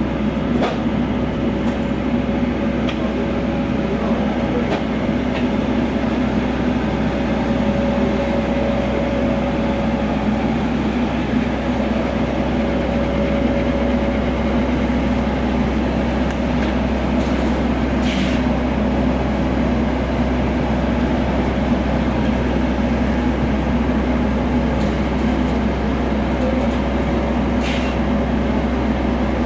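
DAF XF105.460 truck's diesel engine running steadily, a constant rumble with a low hum. A couple of short clicks sound about two-thirds of the way in and near the end.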